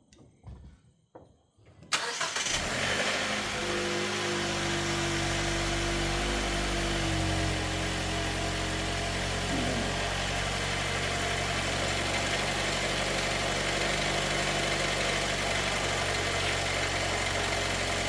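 Jeep Wrangler Rubicon's engine starting about two seconds in, then running at a steady idle.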